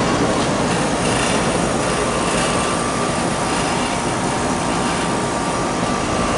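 Outdoor central air-conditioner condensing units running: a steady whoosh of condenser fans with compressor hum, and a faint thin whine joining in about two seconds in.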